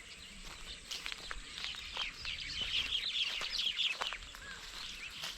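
A colony of baya weavers chattering: many fast, high twittering notes overlapping, busiest in the middle.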